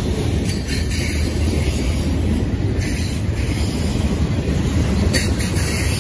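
Freight train of covered hoppers, tank cars and boxcars rolling past at speed: a loud, steady rumble of steel wheels on the rails.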